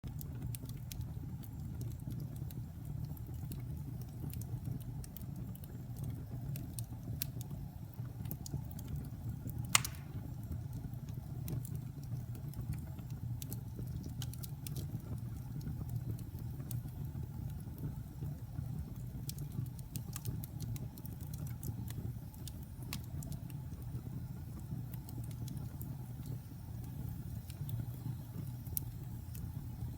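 Wood fire burning in a fireplace: a steady low rumble under frequent sharp crackles and pops from damp pine logs as they heat, with one much louder pop about ten seconds in.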